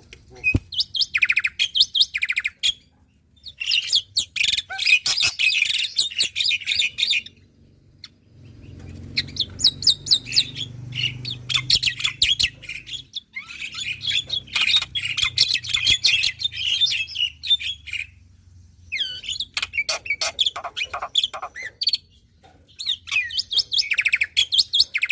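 Black-winged myna (jalak putih) in full song: about six bouts of rapid chattering, whistled and clicking phrases, each a few seconds long, with short pauses between them.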